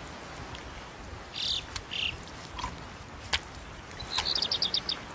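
Bird calls: two short high chirps, then a quick run of about eight chirps near the end. A few sharp clicks and a faint steady outdoor hiss run beneath.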